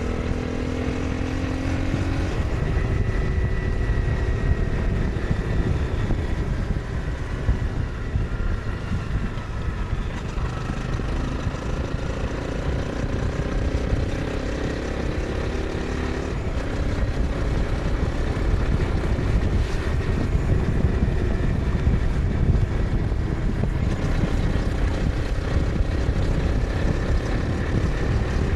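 Honda CBR 250R's single-cylinder engine pulling under load, its note climbing and then dropping sharply at a gear change about two seconds in and again around sixteen seconds, under a steady low rumble of wind.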